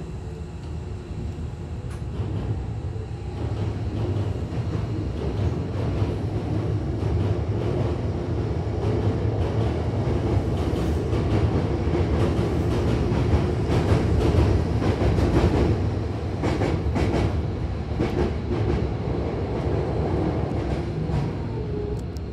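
Running noise inside a Hankyu Kobe Line train car: a steady low rumble with wheels clacking over rail joints and points. It grows louder toward the middle, where the clacks come thickest, and eases off near the end as the train nears Osaka-umeda.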